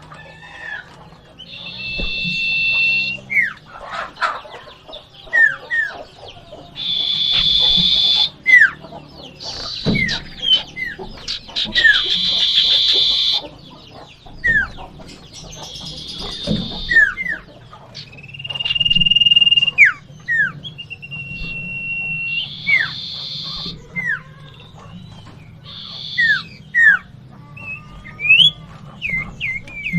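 Common iora in energetic song: short falling whistles repeated over and over, mixed with harsh, buzzy churring phrases about a second long and a few longer level whistles.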